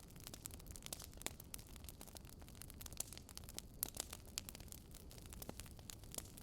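Wood fire burning: irregular sharp crackles and pops from the logs, several a second, over a faint low rumble.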